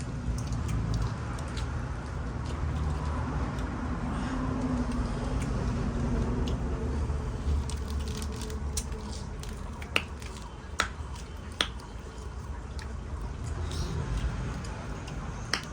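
Eating sounds from a mukbang meal, with several sharp clicks about ten to twelve seconds in and again near the end, over a steady low rumble.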